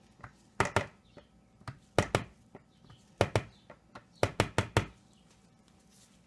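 About a dozen sharp hard knocks and taps in quick clusters of two to four, with quiet between, from soap-making utensils or containers striking a hard surface while soap batter is being put into a mold.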